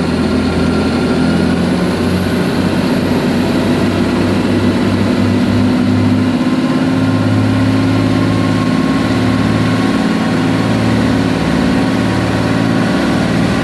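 Powerboat's inboard engine running hard under way, heard loud inside the engine room, with a faint high whine that rises over the first few seconds.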